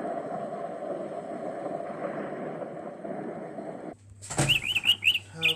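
A steady rushing storm noise of rain and wind fades and then cuts off. About four seconds in, a cartoon bird starts chirping in a quick run of high chirps.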